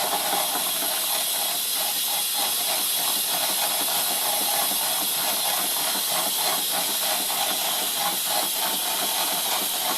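Stuart 501 model steam boiler's safety valve blowing off in a steady hiss of steam: the boiler is at full pressure and venting the excess.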